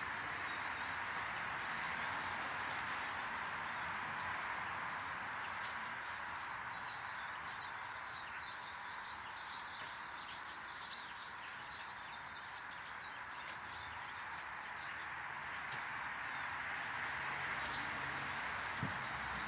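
Small garden birds chirping and twittering over a steady rushing background noise, with a few sharp clicks.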